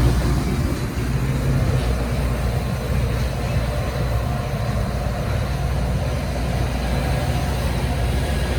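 Diesel-hauled train passing close by, a steady low locomotive engine drone and rumble.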